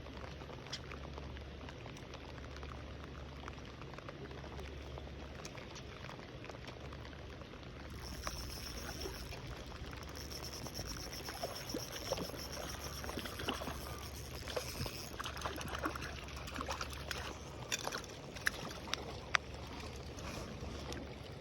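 Water trickling and splashing, with many small clicks and ticks. About eight seconds in it gets a little louder and a thin, steady high tone joins it.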